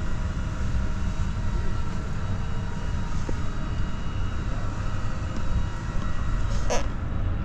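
Steady low rumble of aircraft and machinery noise, with faint steady whining tones over it and a short hiss near the end.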